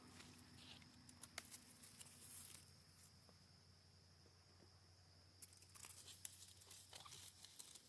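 Near silence, with faint scattered rustles and small clicks of apple-tree leaves and twigs as apples are picked by hand.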